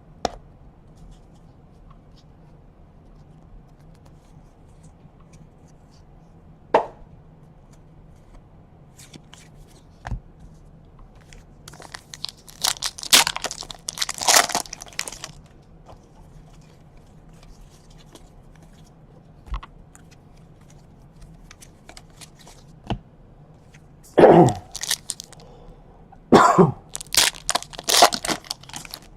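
Trading-card packaging being torn and crinkled open, in two bouts of loud rustling, one about halfway through and one near the end. A few light clicks and taps of cards being handled come in between.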